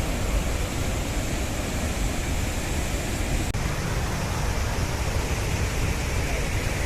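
Steady roar of Athirappilly waterfall in monsoon spate, a big high-volume fall throwing up mist.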